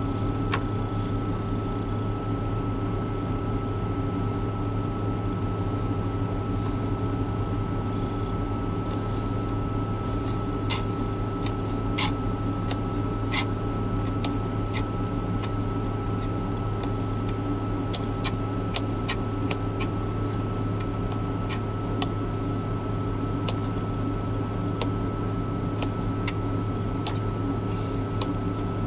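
Knife cutting pickles into chunks, making irregular sharp clicks and taps, more frequent in the second half, over a steady low machine hum in the truck cab.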